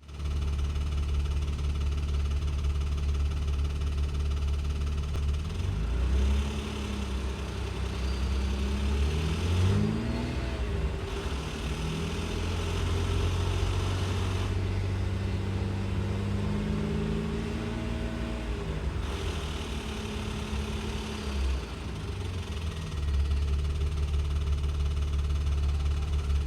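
Ford Probe 2.5-litre V6 engine idling, revved twice, held at raised revs for several seconds, then dropped back to idle near the end. The engine knocks at revs below about 2,000 rpm.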